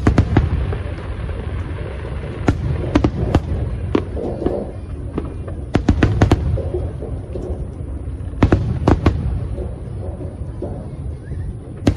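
Aerial fireworks bursting: sharp bangs come in quick groups every second or two, over a steady low rumble of further bursts.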